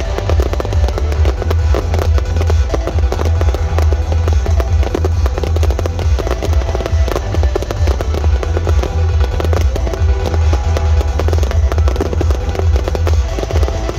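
Many fireworks bursting in quick succession, a dense run of small bangs and crackles, over loud music with a heavy bass beat.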